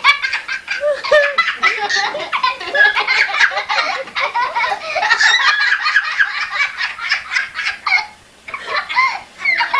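Hearty laughter in long runs of quick, high-pitched giggles, with a short break about eight seconds in.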